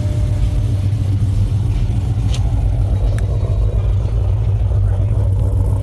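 A car engine idling with a deep, steady rumble.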